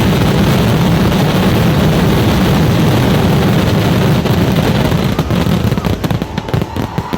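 Dense barrage of firecrackers from a Kerala temple-festival fireworks display (vedikettu), the explosions coming so fast they blend into one continuous loud noise, thinning out into separate bangs near the end.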